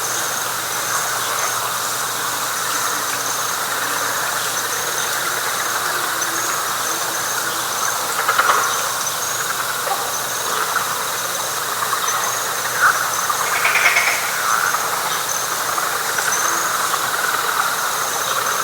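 Night chorus of frogs and insects in a wet pine flatwoods: a dense, steady drone with a high, continuous insect chirping above it, and a few louder single calls standing out now and then.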